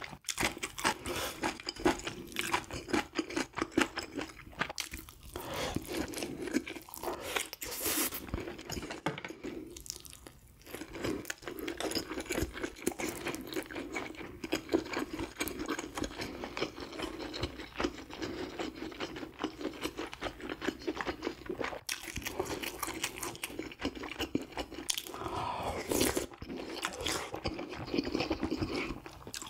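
Close-miked chewing and crunching of grilled fish: rapid wet, crackly mouth sounds that carry on throughout, with a brief lull about ten seconds in.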